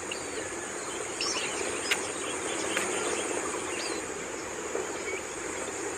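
Steady high insect drone with scattered short, high bird chirps over it, and a sharp click about two seconds in.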